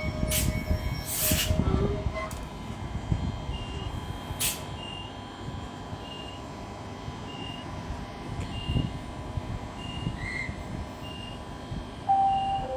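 Queensland Rail electric train at the platform: a few sharp bursts of air hissing, then a steady run of short high-pitched warning beeps, about one every three-quarters of a second. Near the end a brief two-note lower tone sounds.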